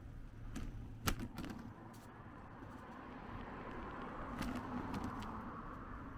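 Street sound heard from a moving bicycle: a few sharp clicks and rattles, the loudest about a second in, over a rushing noise that swells in the second half.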